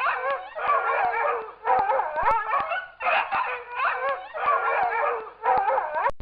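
A dog sound effect: yapping and howling calls in repeated bursts, roughly one burst a second, the pitch wavering up and down within each burst.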